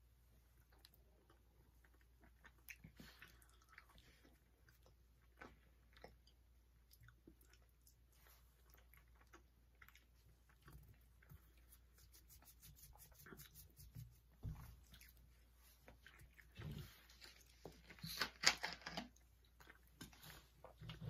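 Faint chewing and mouth sounds of people eating cookies, with scattered small clicks. A louder run of clicks and crackles comes near the end.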